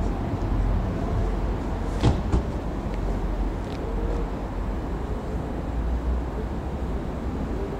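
Class 175 diesel multiple unit approaching at low speed: a steady low engine rumble, with two sharp clicks about two seconds in.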